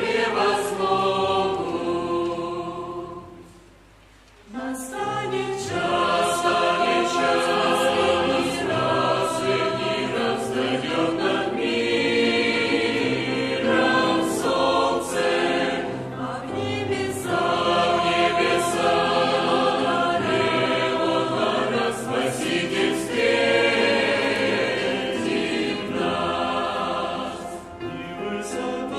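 Church choir singing a hymn, with a brief pause about four seconds in before the singing resumes.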